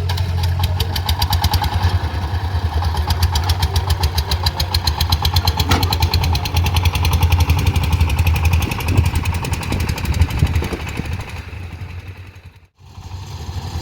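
Diesel engine of a heavy construction machine running with a steady, rapidly pulsing low hum. The sound fades and cuts out briefly near the end.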